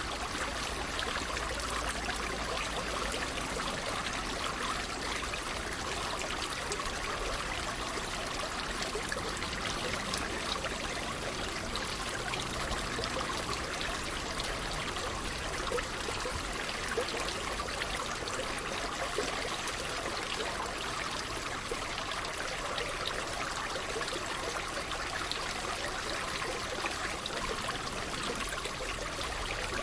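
Water trickling and babbling steadily, as from a small stream.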